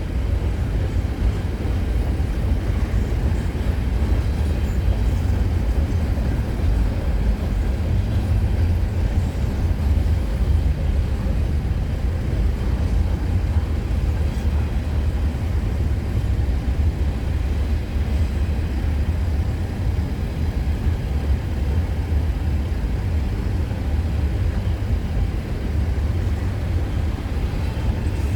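CN freight train's cars rolling past: a steady low rumble of wheels on rail that holds even throughout.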